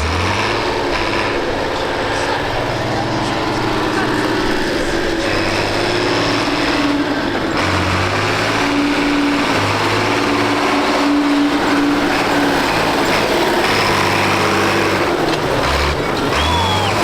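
Tractor engines running, with several steady low engine tones that change pitch and strength from moment to moment as the machines work.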